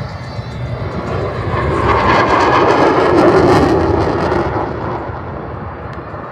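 Aircraft passing by, its noise building to a peak about three seconds in and then fading away.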